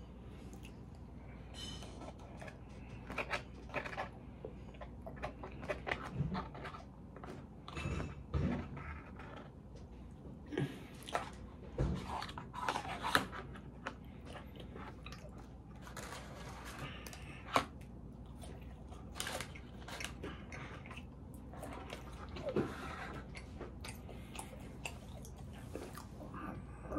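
Close-miked chewing and biting of a person eating a salmon dinner: wet mouth sounds and crunches with irregular sharp clicks and smacks, busiest in the middle.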